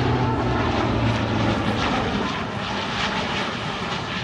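Four turboprop engines of the Blue Angels' C-130J 'Fat Albert' transport flying past: a loud, steady engine drone whose low hum fades about two seconds in, the whole sound slowly getting quieter as it moves away.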